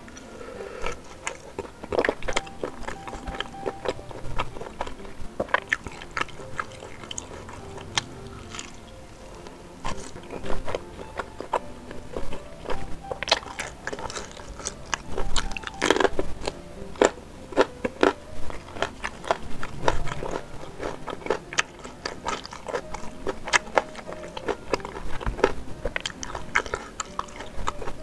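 Close-miked biting and chewing of sempol, chicken-and-tapioca skewers coated in spicy sauce. It is an irregular run of small mouth clicks and squelches that comes thicker in the middle.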